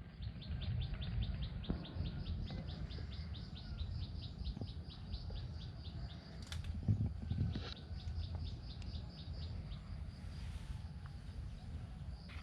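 A bird calling in a rapid, even run of short high chirps, about seven a second, fading after about seven seconds, over a steady low rumble.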